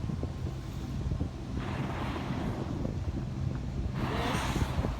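Wind buffeting the microphone over open water, a steady low rumble. Two rushing whooshes about a second long come through it, one a little under two seconds in and one near the end.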